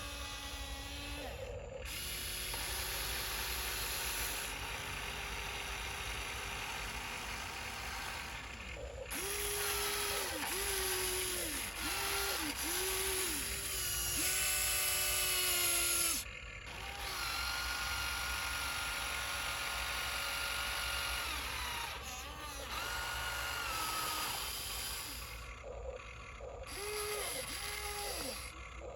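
Electric motors of a radio-controlled dump truck whining, sometimes held steady and sometimes in short spurts that rise and fall in pitch about once a second.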